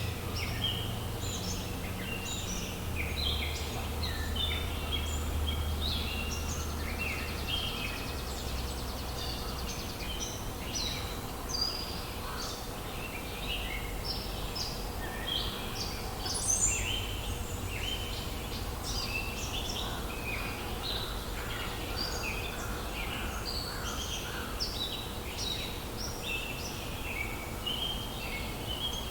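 An early-summer chorus of many songbirds singing and chirping over one another, with crows calling among them.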